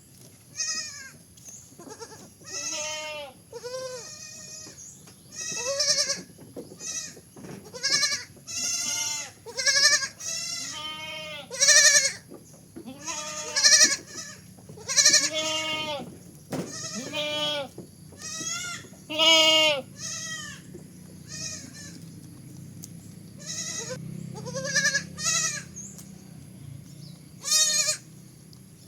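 A young goat bleating over and over: about twenty short, quavering, high-pitched bleats with brief gaps between them.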